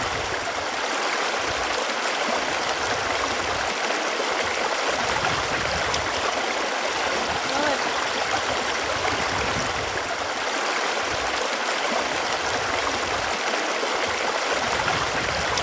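Running water flowing steadily, a continuous rushing with small bubbling notes running through it.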